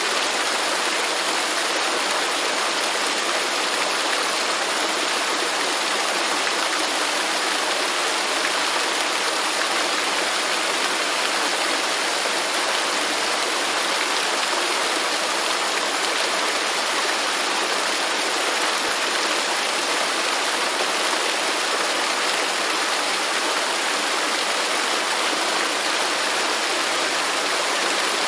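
Waterfall: the steady, unbroken rush of falling water, even throughout with no single splashes standing out.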